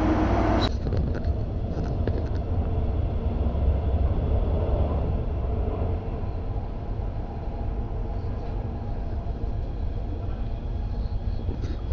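Passenger train running, a steady low rumble with no clear events.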